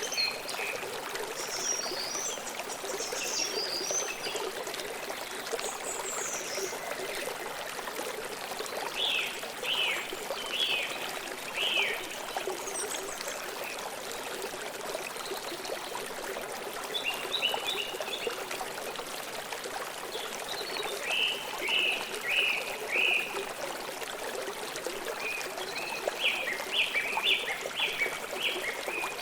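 A river or stream flowing steadily, with birds chirping in short quick runs of notes every few seconds.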